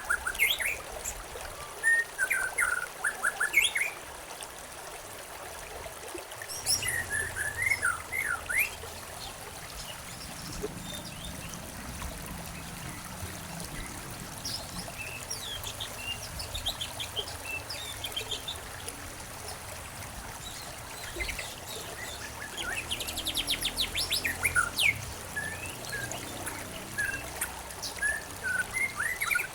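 Songbirds chirping and singing in bouts over a steady rush of flowing water. The water gets louder about six seconds in, and the birdsong is busiest near the start and again near the end.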